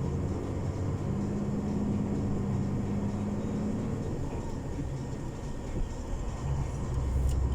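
Loaded semi-truck's diesel engine running, heard from inside the cab as a steady low rumble. The rumble eases for a couple of seconds past the middle and then comes back stronger.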